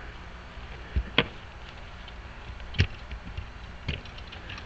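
A few sharp, separate clicks and taps of small metal lock hardware being handled and worked during a lock rekey: two close together about a second in, then single ones near the middle and later.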